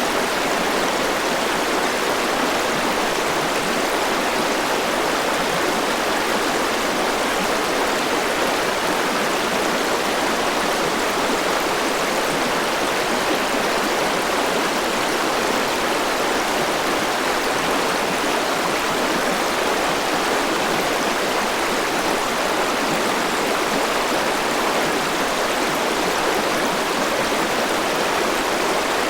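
River water rushing and flowing over rocks, a steady, even sound.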